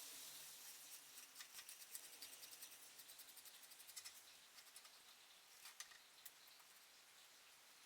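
Faint, quick scratching with many light ticks and clicks, thinning out near the end: small hand-work handling sounds.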